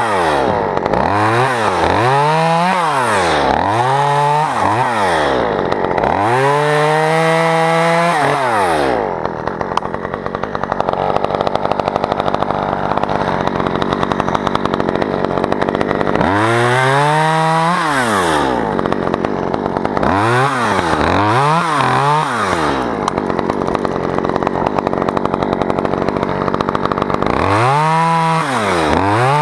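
Two-stroke chainsaw revved up and down in quick bursts, then held at full throttle for several seconds at a time while cutting through spruce wood. It does this twice, with more blips of the throttle between and after the cuts.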